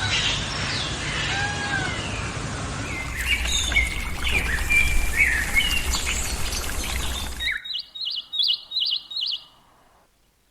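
Birds chirping and calling, with repeated arching whistled notes over a steady background hiss. About seven and a half seconds in, the sound cuts to a quick run of about six high chirps, then stops.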